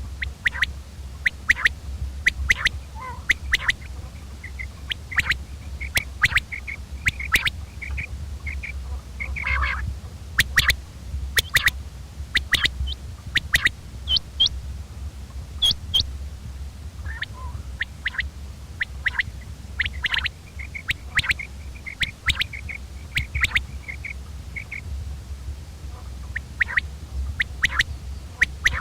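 Common quail calling: short, sharp notes repeated throughout, some in quick runs, over a steady low hum.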